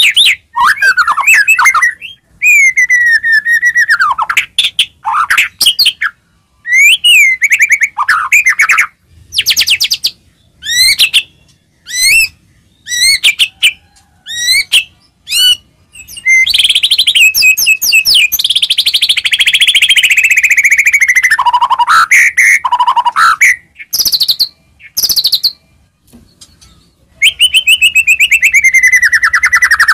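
White-rumped shama (murai batu) singing loudly: a run of short, varied whistled phrases and quick trills with brief gaps between them, then long, fast unbroken trills from about halfway through and again near the end. This is the heated, fighting-style song used as a 'pancingan' to provoke other murai batu into singing.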